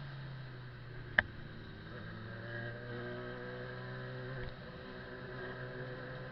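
Motorcycle engine running at a steady low pitch, with a single sharp click about a second in.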